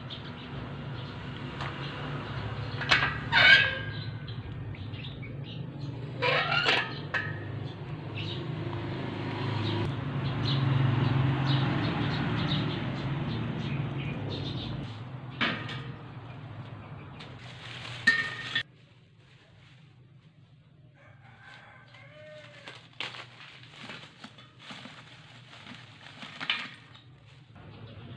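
Two loud bird calls, about three seconds apart, over a steady low hum. The hum cuts off abruptly about 18 seconds in, leaving faint small-bird chirps.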